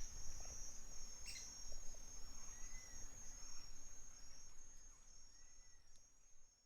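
Forest ambience: a steady high insect trill with a sharp bird chirp and a couple of soft whistled bird notes over a low rumble of wind, all fading out gradually.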